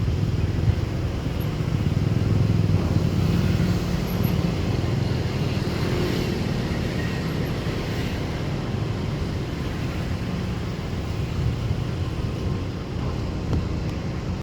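Steady low rumble of motor-vehicle traffic running on without a break.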